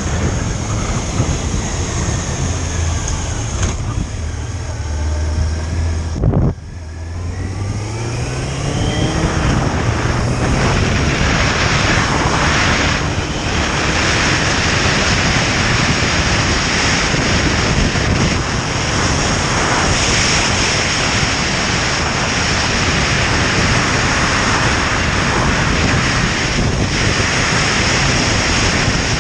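Motorcycle engine running under way. About six seconds in the sound drops out briefly, then the engine pitch rises as the bike accelerates, and heavy wind rush on the microphone grows to cover the engine.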